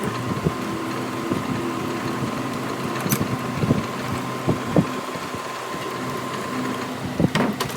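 A motor or engine running steadily at a constant pitch, with scattered short knocks and clinks over it and a quick cluster of them near the end.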